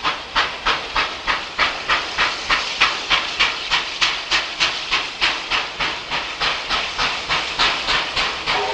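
Exhaust of the double-headed NSW 38 class steam locomotives 3801 and 3830 working hard, a steady chuff-chuff of sharp beats, about four a second.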